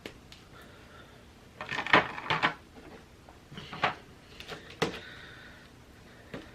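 Oreo cookie-train pieces being snapped apart along their snap lines and handled on the table: a few short, sharp cracks and clatters, bunched together about two seconds in, then single ones a couple of seconds later.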